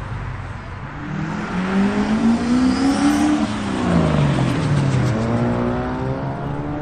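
A car engine accelerating as the car drives off: the note climbs for about two seconds, drops back, then climbs again near the end.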